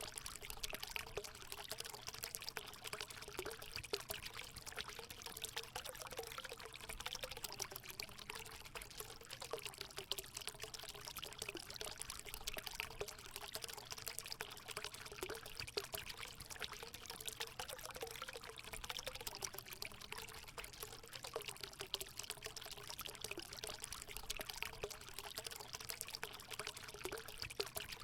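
Natural water running steadily into a hot spring pool: a continuous pouring splash with a low gurgling note that wavers slightly.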